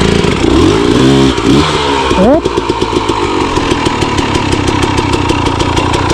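Enduro motorcycle engine revving under throttle, with a quick rise in revs about two seconds in, then running steadily at lower revs.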